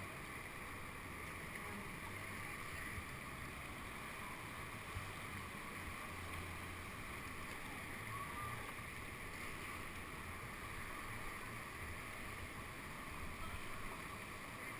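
Steady rush of whitewater heard from a kayak on a man-made whitewater course, with one brief knock about five seconds in.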